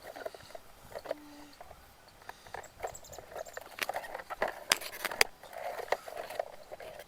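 Toy excavator digging dry soil: irregular scraping with scattered sharp clicks, the loudest a few seconds in, and a short steady tone about a second in.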